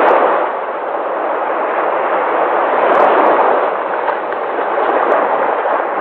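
Sea waves washing onto a shore in a steady rush of surf, swelling as a wave breaks at the start and again about three seconds in.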